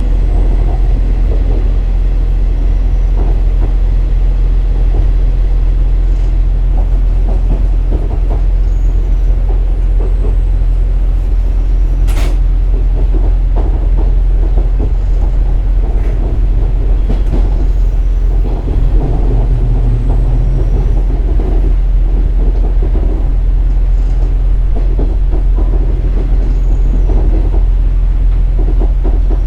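KiHa 47 diesel railcar under way, heard from inside the car: a steady low diesel engine drone with wheel-on-rail rumble. There is a single sharp click partway through.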